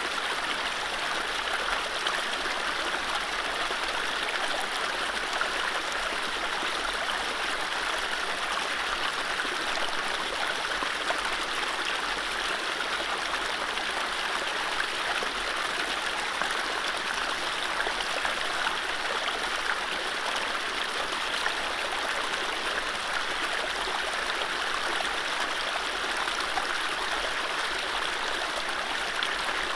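Mountain stream running over low rapids: a steady, even rush of water with small gurgles, and no birdsong.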